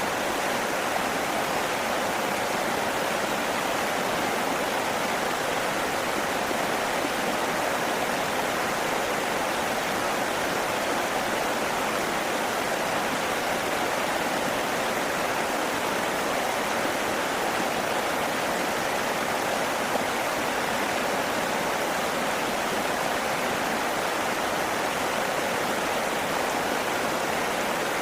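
A steady, even rush of running water, unchanging throughout.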